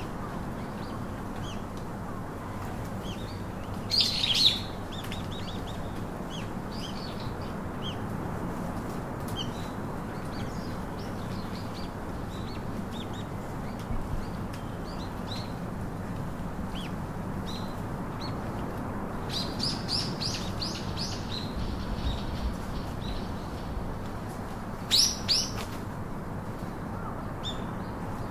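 Pet parakeets chirping in short, high calls scattered through, with a loud burst about four seconds in, a quick run of chirps around twenty seconds, and two loud calls near the end, over steady low background noise.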